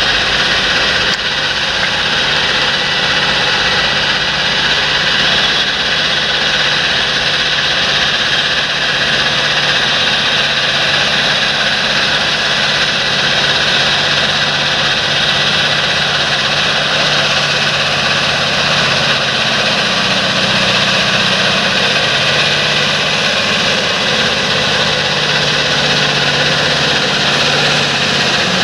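Large John Deere tractor's diesel engine running steadily, with a constant hiss above it.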